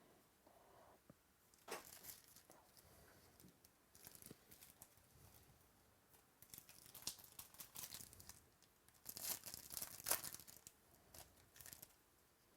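Faint, scattered tearing and crinkling of a trading-card pack wrapper being opened, loudest about nine to ten seconds in.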